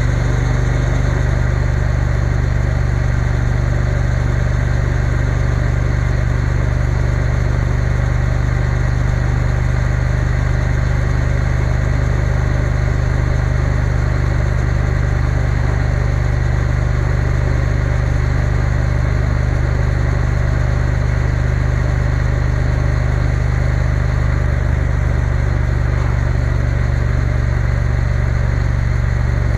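Triumph Bonneville T120 parallel-twin engine running at a steady pace under way, over an even rushing noise.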